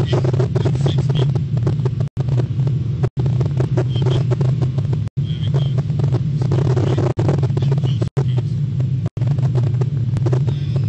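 Nissan GT-R engine running hard at track speed, heard from inside the cabin as a steady, loud drone. The sound cuts out for an instant every second or two.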